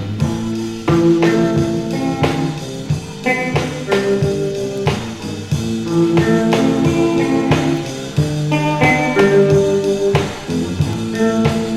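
Instrumental break of a garage surf-rock song: guitar playing sustained melody notes over a steady drum-kit beat, with no singing.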